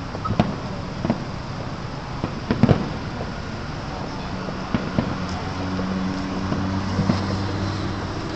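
Distant New Year fireworks going off in scattered sharp bangs, several close together around the middle, over steady roadside background noise. From about halfway through, a vehicle's engine hum rises underneath.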